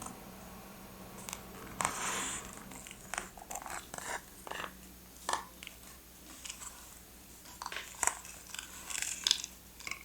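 Paper and stationery handled up close while a journal is decorated: irregular crinkles and light taps, with a longer rustle about two seconds in.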